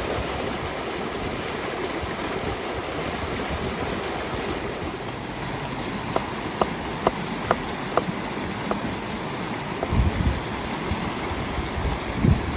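River water flowing steadily. From about six seconds in, a series of sharp taps comes at roughly two a second, and a few dull low thumps follow near the end.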